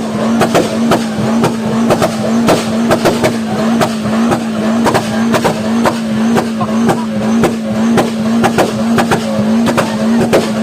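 Volkswagen Golf engine held at high, steady revs through a loud aftermarket exhaust, with sharp exhaust pops and bangs about two to three times a second.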